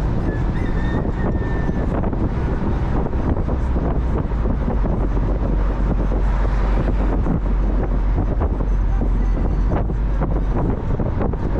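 Mazda Miata driving: steady low road and engine rumble with wind buffeting the microphone.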